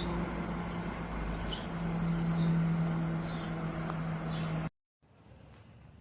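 A steady low hum, with a bird giving a short falling chirp about once a second over it. The sound cuts off abruptly near the end.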